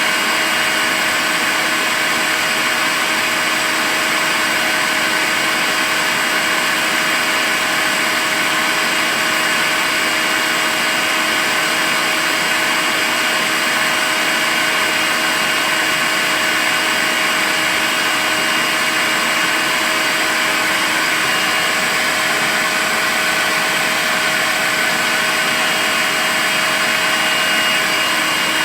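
Makita cordless stick vacuum cleaner running steadily, a constant motor whine with airflow hiss and no change in speed.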